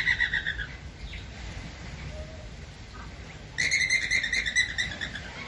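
Flamingos calling: a burst of rapid, repeated nasal calls at the start, then a quieter gap, then a louder burst of the same calls about three and a half seconds in, lasting over a second.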